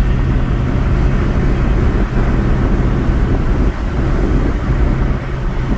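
Steady road noise inside a moving car: a low engine and tyre rumble with a constant hum.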